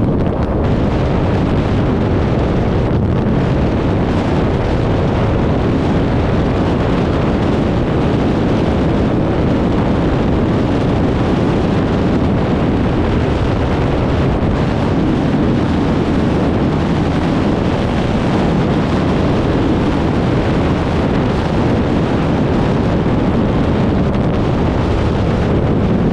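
KTM Duke 390's single-cylinder engine with an Arrow full-system exhaust running at a steady high speed, largely buried under heavy wind buffeting on the microphone. The engine note holds steady, with no clear revving or gear changes.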